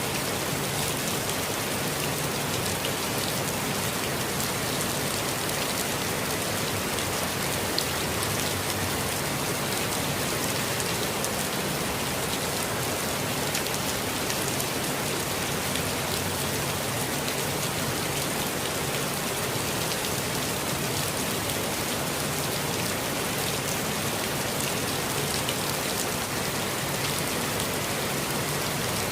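Steady, even rainfall with many small drop patters, a constant gentle hiss.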